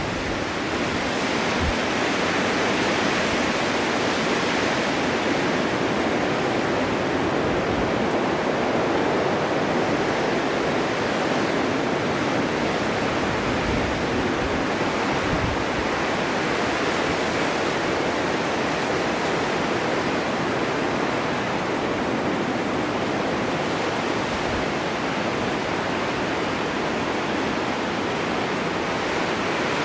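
Snowstorm wind blowing steadily in a constant rush, with slow, gentle swells and no sudden gusts.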